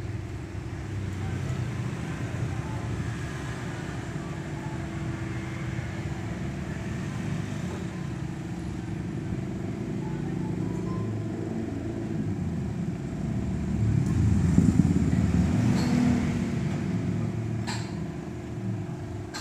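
Motor vehicle engine running steadily, growing louder for a couple of seconds about two-thirds of the way in, with a short sharp click near the end.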